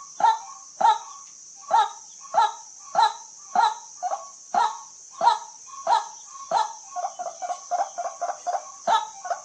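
White-breasted waterhen calling: a loud, repeated 'kwak' note about one and a half times a second. About seven seconds in, the notes break into a quicker run of shorter, lower notes, then return to the slower pace near the end.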